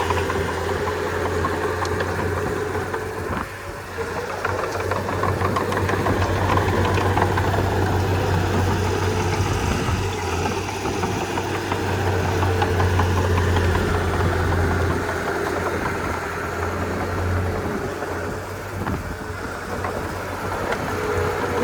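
Komatsu D31P crawler bulldozer's diesel engine running steadily while the dozer works, with a steady low drone and brief dips in loudness about four seconds in and again near the end.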